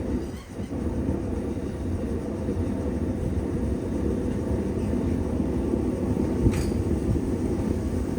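Steady low rumble of a running blacksmith's forge, with one sharp tap about six and a half seconds in.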